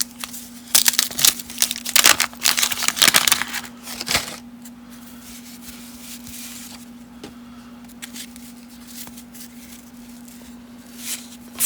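Paper-and-cardboard handling of baseball cards: a busy stretch of rustling, sliding scrapes in the first four seconds or so, then lighter handling that tails off. A steady low hum runs underneath.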